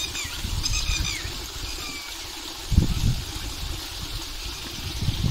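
A bird chirping in short repeated notes that slide down at the end, mostly in the first two seconds, over a low uneven rumble. A single thump comes a little under three seconds in.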